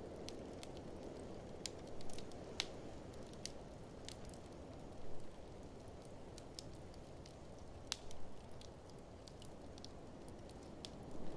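Wood fire in an open fireplace crackling, with irregular sharp snaps and a few louder pops, over a steady low rushing of blizzard wind.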